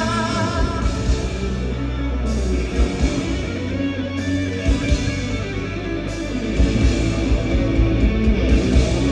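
Live rock band playing an instrumental passage: electric guitar over bass and a steady drum beat.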